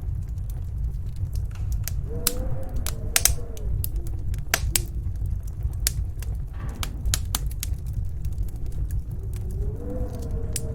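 Wood fire crackling with scattered sharp pops over a steady low rumble of snowstorm wind. The wind howls in a wavering, rising and falling tone about two seconds in and again near the end.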